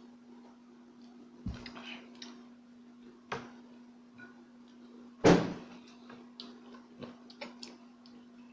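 Scattered clicks and knocks from eating at a table, with food and tableware being handled, and one loud thump about five seconds in, over a steady low hum.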